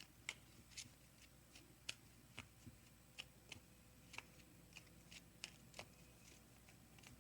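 Near silence with faint, irregular soft clicks and taps of oracle cards being handled.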